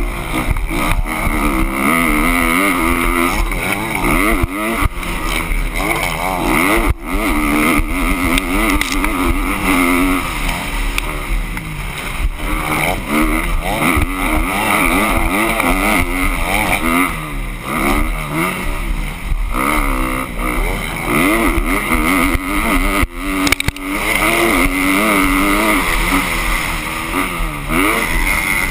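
Motocross dirt bike engines revving, their pitch rising and falling over and over as the throttle opens and closes.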